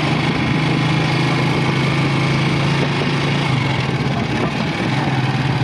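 A small engine running steadily, its pitch shifting slightly about halfway through.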